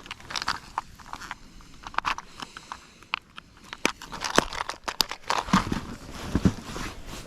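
Irregular crinkling and small clicks of a soft-plastic trout worm package and tackle being handled close to the microphone while a bait is changed.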